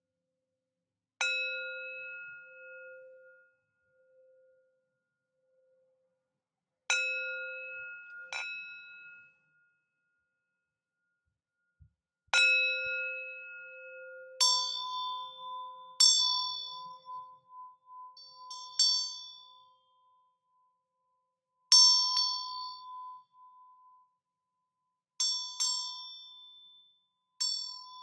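Sound-bath bells struck one at a time, each ringing out and fading slowly. A lower-pitched bell sounds four times in the first half, then a higher-pitched bell or chime takes over and is struck repeatedly.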